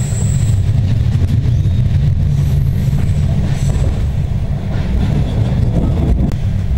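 Passenger train running along the track, heard from inside the carriage: a steady low rumble with a few faint knocks from the wheels and rails.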